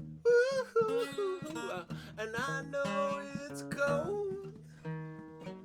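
Acoustic guitar strummed, with a voice singing a wavering melody over it.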